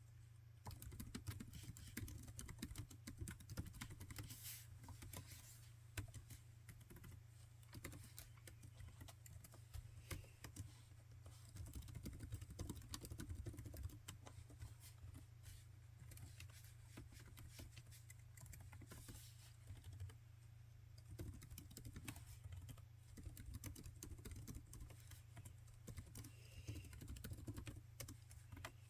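Laptop keyboard being typed on continuously, a quiet, dense run of key clicks.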